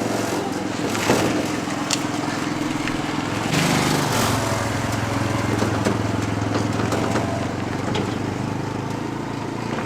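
A small engine running steadily, with a few knocks over it. Its note shifts about three and a half seconds in, then holds low and even.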